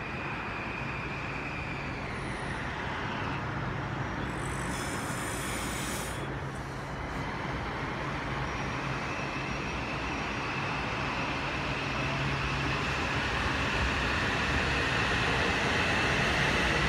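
Rumble of an approaching train over steady background traffic noise, growing gradually louder, with a brief high hiss about five seconds in.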